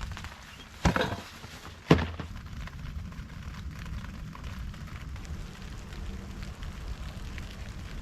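Light rain pattering, a steady spread of small drop ticks, with two sharp knocks about one and two seconds in.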